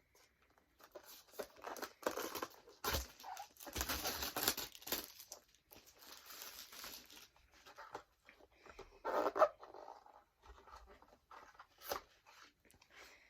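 Toy packaging being torn open and crinkled by hand in irregular bursts, the longest about four seconds in.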